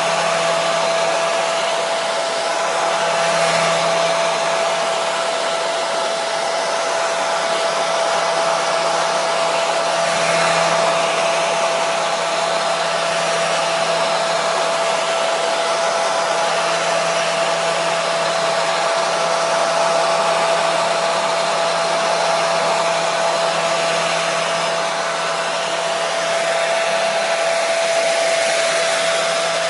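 Hair dryer running steadily: a continuous rushing blow with a steady motor whine, swelling and easing slightly every few seconds, played as white noise to soothe a baby.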